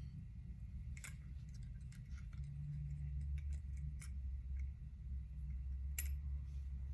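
Light clicks and taps of small metal hair-clipper parts being handled, with sharper clicks about one, four and six seconds in, over a steady low hum.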